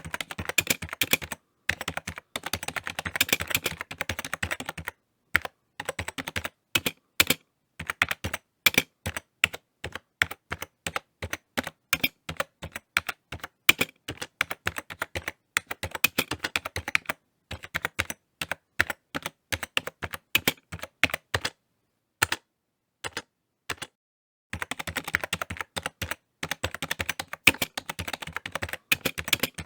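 Typing on a computer keyboard, keys clicking in quick flurries at the start and near the end, with more spaced single keystrokes through the middle and a pause of about two seconds before the last flurry.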